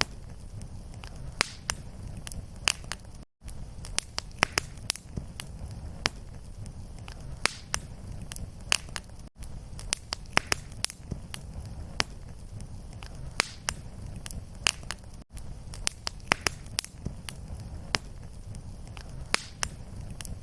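Wood fire in a fireplace crackling and popping steadily, with many sharp irregular pops over a low rumble of flame. The sound drops out for an instant about every six seconds.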